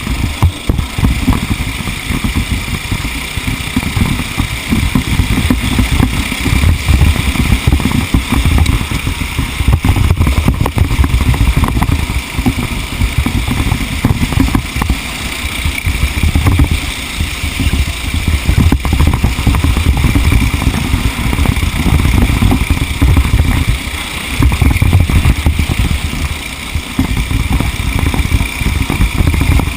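Small racing engine running continuously under load through a race, its note rising and falling as it is driven, with heavy low rumble from wind and vibration on an onboard microphone.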